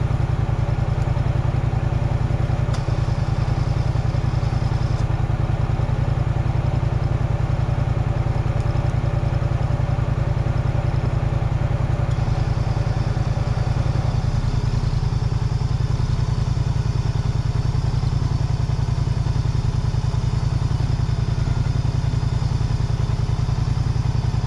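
Off-road vehicle engine running steadily at low revs close by, with an even, rapid firing pulse; some of its higher tones drop away a little past the middle.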